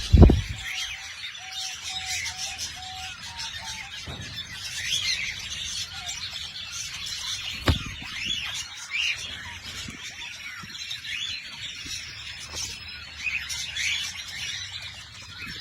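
Parrot chirping again and again in short high rising and falling calls. There is a run of low, level whistled notes over the first few seconds, a loud thump just after the start and another about eight seconds in.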